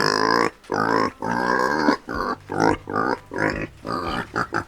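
Domestic pig grunting and oinking in a quick run of short calls, about two a second.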